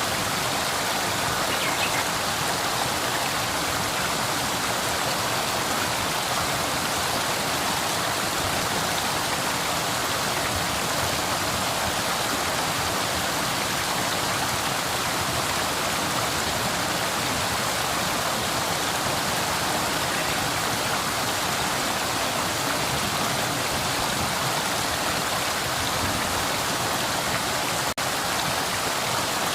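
Flowing river: a steady, even rush of water, with a momentary dropout near the end.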